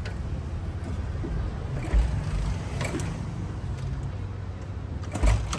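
Old Royal Enfield Bullet 350 Electra being kick-started twice, a heavy thump about two seconds in and another near the end, the engine failing to catch: it has stood unused for a long time on stale fuel. A steady low rumble runs underneath.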